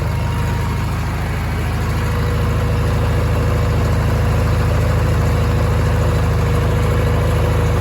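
Sears Suburban garden tractor's small gasoline engine running steadily, just restarted after sitting a long time and now pulling fuel through its pump while still burning off carb cleaner.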